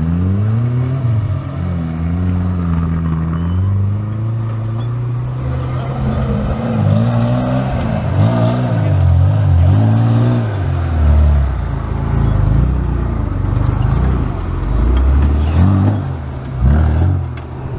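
Off-road 4x4 engine revving, its pitch rising and falling again and again as the throttle is worked, with tyre and chassis noise underneath.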